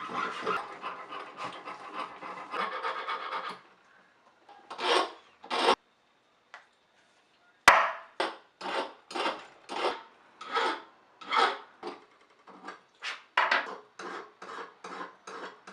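Rough rubbing and rasping of a hand tool worked against a piece during jewelry making. For the first three or four seconds it runs continuously with a steady tone in it, then it stops, there is a sharp click, and it goes on as separate strokes at about two a second.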